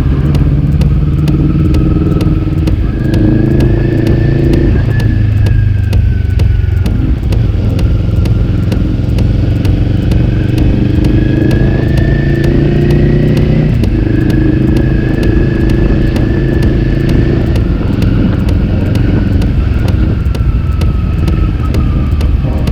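Honda CB400 inline-four motorcycle engine running loud and steady, its revs slowly rising and falling several times.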